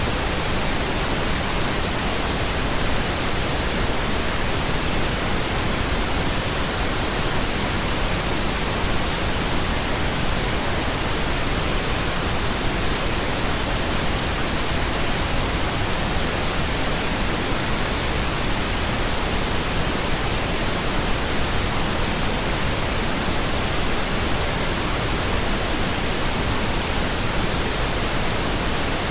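Steady pink noise: an even, unchanging hiss with no other sound in it.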